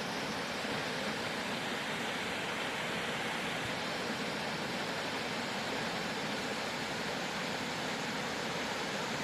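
Dry Falls waterfall on the Cullasaja River: a large volume of water pouring over the falls in a steady, even rush.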